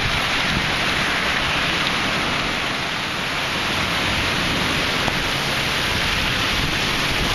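Very hard thunderstorm rain pouring down, a steady, even hiss with no let-up.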